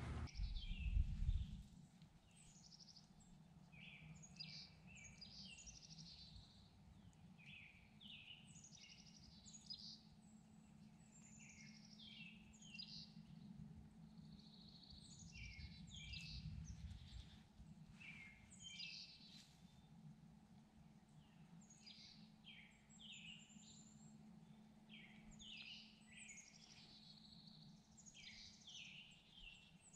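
Faint songbirds singing, a steady stream of short chirps and descending trills, over a low steady hum.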